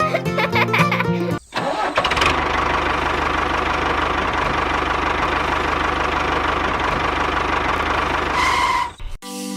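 Background music breaks off, and about a second and a half in an engine starts and runs steadily with a fine, even pulse. Near the end a short two-tone chime sounds, then the engine cuts off abruptly.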